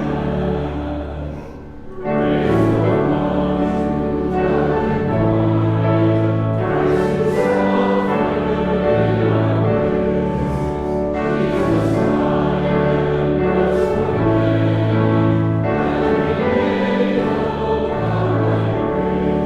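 Congregation singing a hymn, with a brief pause between lines about two seconds in.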